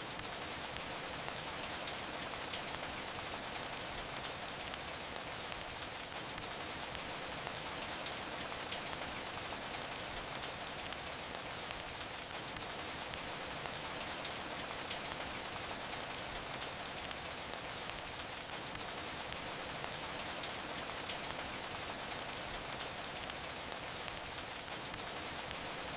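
Steady hiss of rain falling, with sharp crackles and pops from a wood fire in the fireplace. The pops come in pairs about every six seconds.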